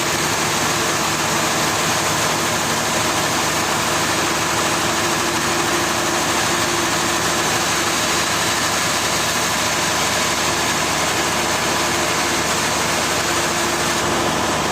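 Heavy machinery running steadily at an even level: an engine-like drone with faint steady hum tones and no change in pace.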